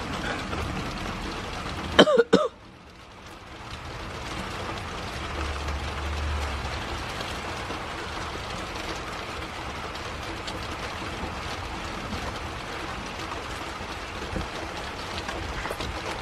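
Steady rain falling, with a brief loud voice sound, like a cough, about two seconds in.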